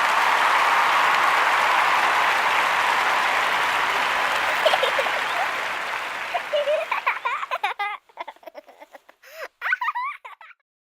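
Applause, an even clatter of many hands that fades out over the first seven seconds or so, followed by a few seconds of short, quickly bending chirps.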